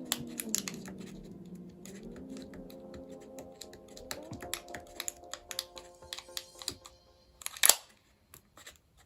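Rapid, irregular small clicks and taps over soft background music; the music fades out around seven seconds in, and one louder click comes shortly after.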